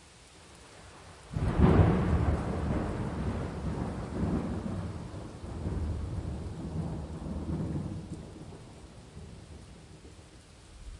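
A thunderclap breaks suddenly over steady rain about a second in, then rolls on in deep rumbles that swell a few times and slowly die away, leaving the rain hiss.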